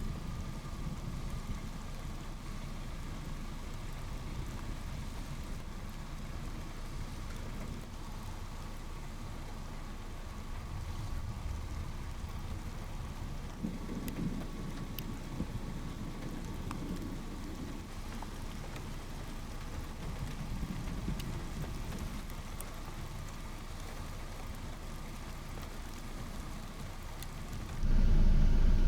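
Steady rain falling, with low thunder rumbling now and then, most clearly around the middle. Just before the end a much louder low rumble starts abruptly.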